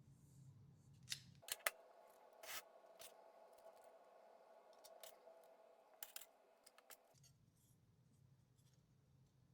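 Faint sharp clicks and snips, about a dozen spread over six seconds, with a faint steady tone under them that stops about two-thirds of the way through.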